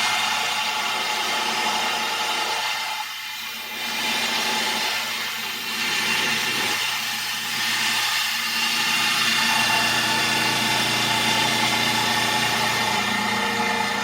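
Heavy machinery running loudly and steadily, a dense mechanical noise with several steady whining tones that dips briefly a few seconds in.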